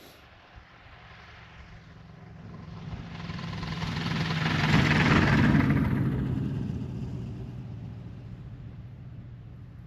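Ultralight aircraft's engine and propeller passing close by, swelling to a loud peak about halfway through and then fading away.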